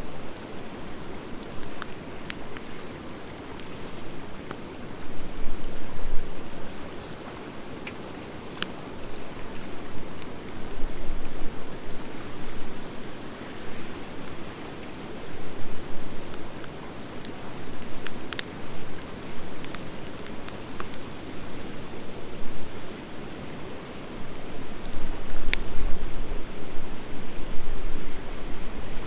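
Wood fire of driftwood mixed with dry hardwood, burning in an open fire pit: a steady rushing hiss with scattered sharp crackles and pops, a few louder ones several seconds apart.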